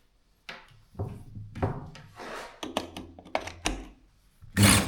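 Knocks and clicks of the DeWalt D25003K hammer drill being handled, then near the end its motor starts up and runs loudly, tested right after reassembly.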